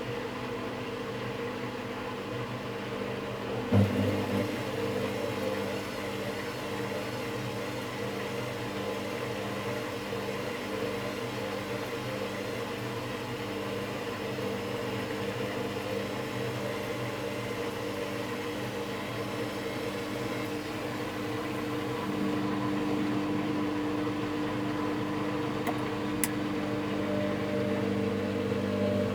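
Candy top-loading washing machine running with a steady hum and whir, stuck in a loop with error E09. A short knock about four seconds in shifts the hum, and it grows a little louder about 22 seconds in.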